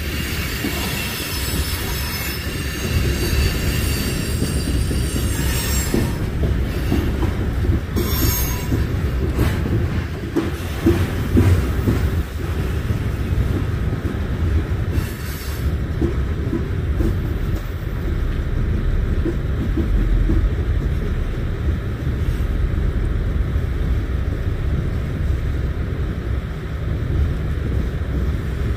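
Freight train cars rolling past: a steady heavy rumble with wheel clatter on the rails. A high wheel squeal sounds over roughly the first five seconds.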